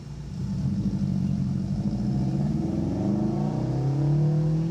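Subaru Leone engine revving under load on a dirt trail, getting louder about half a second in, its pitch climbing and dipping.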